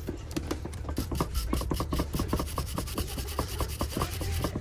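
Quick, evenly repeated rasping strokes of a hand tool rubbed against a part of a folding side-mirror mechanism, over a steady low hum.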